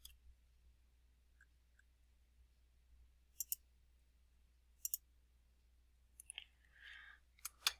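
Computer mouse clicking: a double click, another double click a second and a half later, then a quick run of clicks near the end with a brief soft rustle among them.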